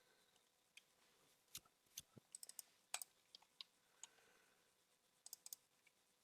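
Faint, scattered clicks of a computer mouse and keyboard, some single and some in quick clusters of three or four.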